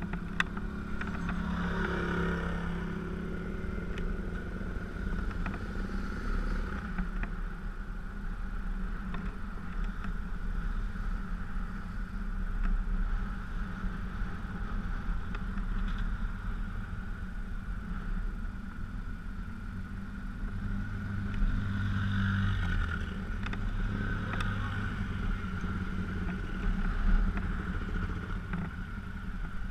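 GS dual-sport motorcycle engine running at low road speed, its pitch shifting about two seconds in and again around twenty seconds in as the throttle changes. A steady high whine sits over the engine.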